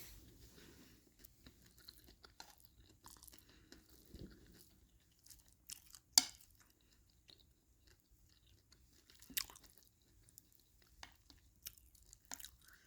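A person chewing crunchy fried potato pieces of sambal goreng aardappel, with faint crunches and scattered short clicks; the sharpest click comes about six seconds in, another about nine seconds in.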